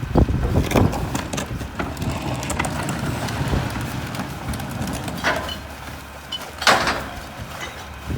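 Mack LR garbage truck's diesel engine running steadily, overlaid by several short, sharp noisy bursts, the loudest near the end.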